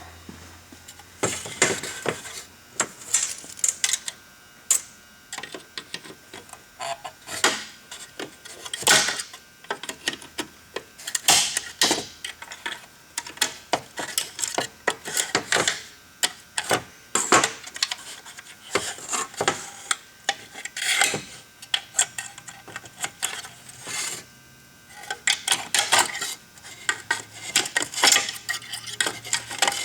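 Irregular metallic clicks, taps and short scrapes of a hand tool and small parts worked against the kill-lever linkage of a Homelite 150 chainsaw, as the linkage's spring wire is pried out.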